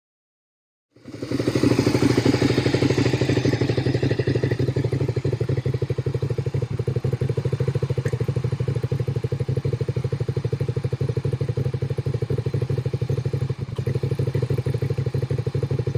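Suzuki SV650's V-twin engine running steadily with a rapid, even exhaust pulse, starting suddenly about a second in and a little louder and brighter for its first few seconds.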